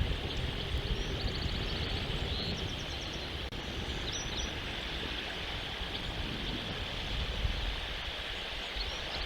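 Outdoor nest-cam ambience: a steady rush of wind on the microphone with a low rumble. Short, high bird chirps and trills come a few times, about a second in, near three seconds and around four seconds.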